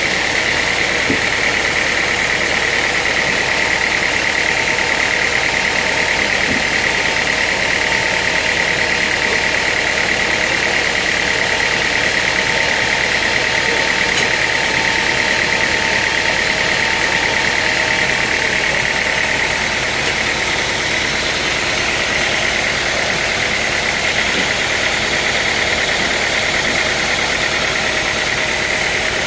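Sawmill machinery running steadily: a loud, even machine drone with a strong high whine that sags a little in pitch midway and comes back up.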